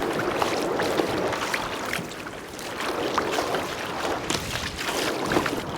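Sea water sloshing and splashing against a fishing kayak, with many small splashes and wind on the microphone.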